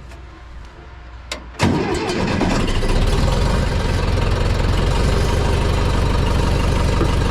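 John Deere 3010 tractor engine being started: it catches about a second and a half in with a sudden jump in level, then settles into a steady idle.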